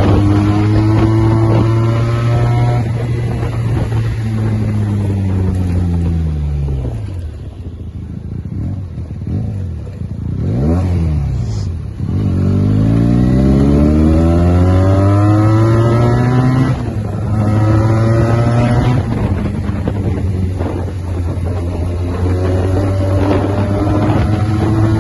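Benelli TNT 300's parallel-twin engine through an aftermarket SC-Project exhaust, loud. Its note holds, drops away and climbs again several times, with the deepest dip about ten seconds in.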